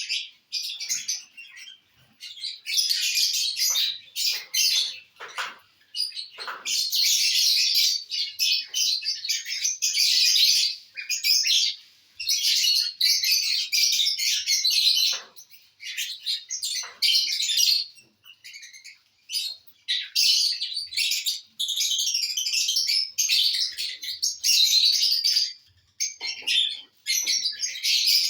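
Lovebirds chattering: dense, high-pitched chirping in bouts of a few seconds broken by short pauses.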